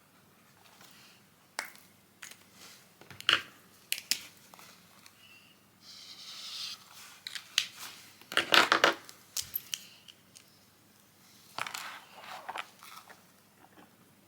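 Close-up handling noises: sharp clicks and taps with some rustling and crinkling, loudest in a cluster of clatter about two-thirds of the way through.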